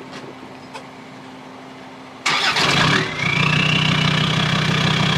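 Land Rover Discovery 2 Td5 five-cylinder turbodiesel starting suddenly about two seconds in, catching at once and settling into a steady idle through its straight-through side-exit exhaust, with a brief rising whine as it settles.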